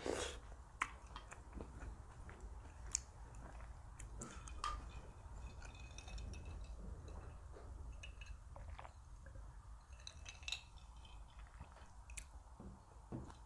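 A person chewing food close to the microphone, with wet mouth sounds and some crunching, and a few sharp clicks scattered throughout.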